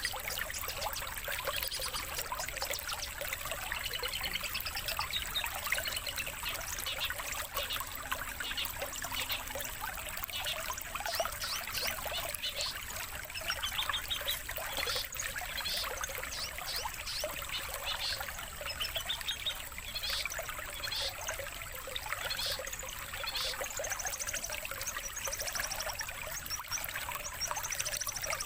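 Songbird chirps and rapid trills from a long-tailed shrike (cendet) lure recording, over a steady background of running water.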